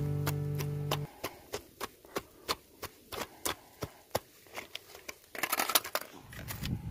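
An acoustic guitar music bed dies away about a second in. Then comes a quick, even series of sharp crunching steps, about three a second: footsteps on ice-crusted snow. A louder rustle follows near the end.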